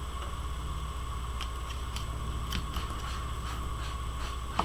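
Steady low background hum with a few faint, irregular ticks and scratches.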